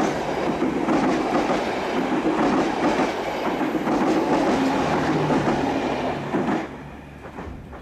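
Passenger train coaches rolling past close by, their wheels clattering on the rails. The sound drops off sharply about six and a half seconds in as the last coach passes.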